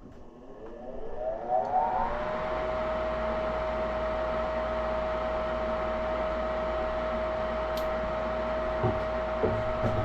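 A gas furnace's fan motor starting up: its whine rises in pitch over about two seconds, then it runs at a steady pitch with a steady rush of air.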